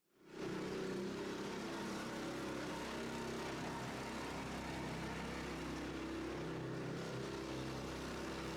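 Small truck's engine idling steadily at an even pitch.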